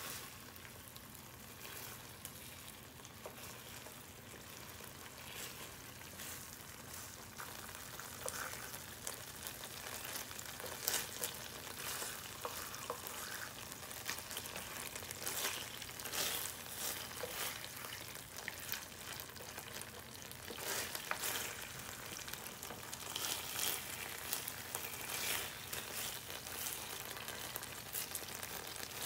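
Glazed eel pieces sizzling in a nonstick frying pan, a steady hiss with frequent small pops and crackles that grow busier about ten seconds in. A wooden spatula pushes and turns the pieces in the sauce.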